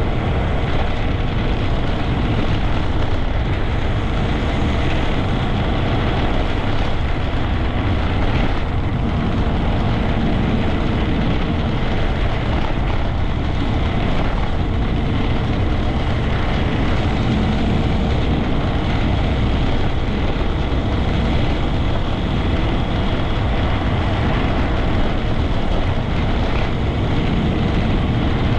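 Honda Grom 125's single-cylinder engine running steadily under way, with wind rushing over the microphone.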